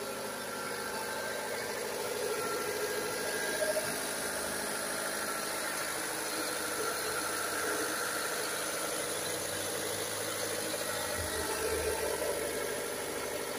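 Renault Mégane's 1.6-litre 16-valve four-cylinder petrol engine idling steadily, heard from over the open bonnet.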